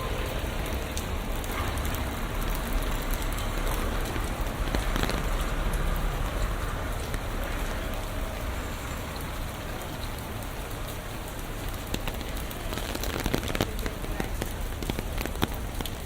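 Rain falling on city surfaces: a steady hiss and patter with many scattered drop clicks, over a low steady rumble.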